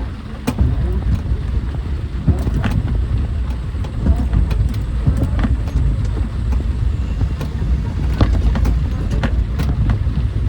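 Steady low rumble of travel in a road vehicle, with scattered sharp ticks and taps on top.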